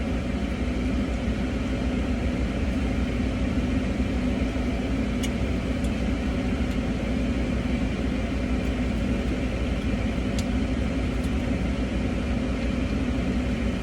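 A car's engine idling, heard from inside the cabin as a steady low hum. Two faint clicks come about five and ten seconds in.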